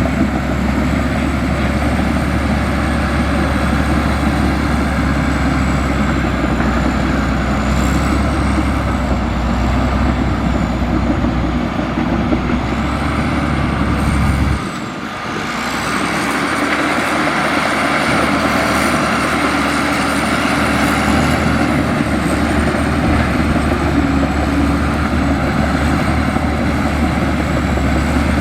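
Komatsu bulldozer's diesel engine running steadily. It drops off briefly about halfway through, then picks up again.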